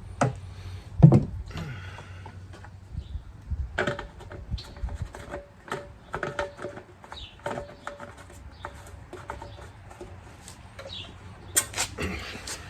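Scattered clicks, knocks and light clatter of things being handled, with a heavy thump about a second in and a sharp clatter near the end.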